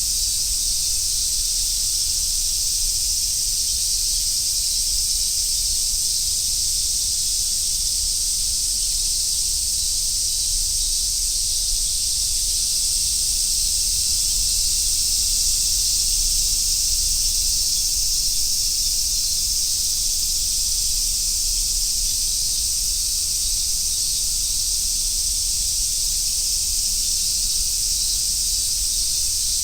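Cicadas singing in chorus: a dense, unbroken high-pitched sizzle that holds steady without pause.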